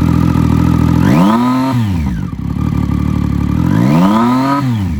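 2016 Triumph Street Triple R's 675 cc three-cylinder engine with an aftermarket exhaust, idling and then revved twice, each rev climbing sharply and falling back to idle, about a second in and again near four seconds.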